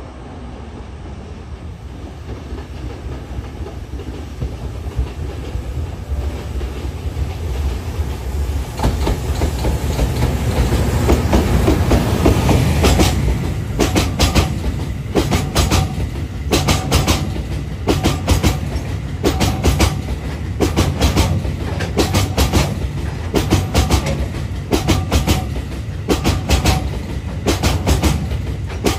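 A freight train hauled by an EF510 electric locomotive approaches with a low rumble that swells to its loudest about twelve seconds in as the locomotive passes. Then a string of cement hopper wagons rolls by close, the wheels clacking over the rail joints in pairs every second or so.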